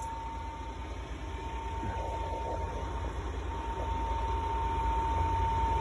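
Steady low mechanical rumble with a thin steady whine, slowly getting louder.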